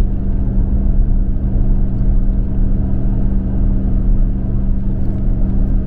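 Steady low rumble of road and engine noise inside a Toyota Prius's cabin while driving, with a constant hum running under it.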